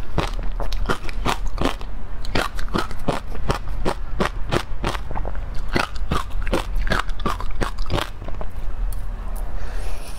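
Close-miked chewing of an ice cream bar coated in crunchy crumbs: crisp crunches come a few times a second, with a fresh bite near the end.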